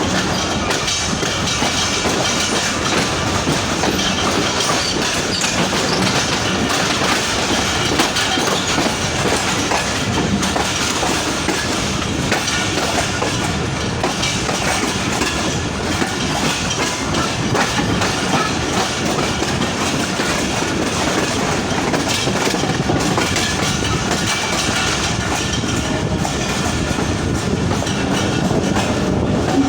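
Passenger train running at speed, its wheels clattering over the rail joints in a steady, continuous din.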